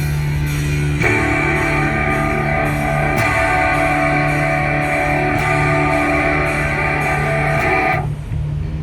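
Guitar playing rock: a full chord rings out, held and sustained from about a second in until near the end, when it drops to lighter single notes.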